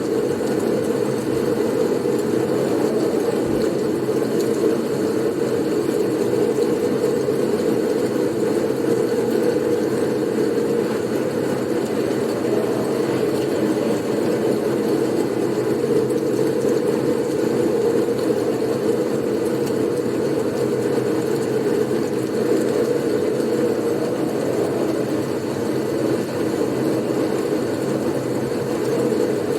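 Steady blizzard wind noise: an unbroken low rushing drone that holds at an even level.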